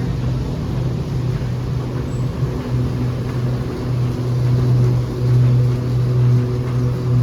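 Low, steady machine hum from the airport people mover, with a few brief dips, growing louder in the second half.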